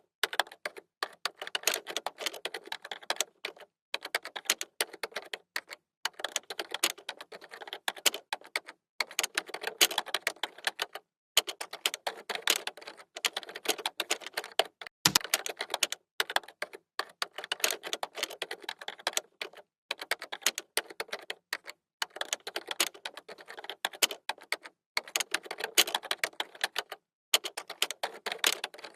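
Computer keyboard typing: quick runs of keystrokes broken by short pauses every second or two, with one heavier, deeper key thump about halfway through.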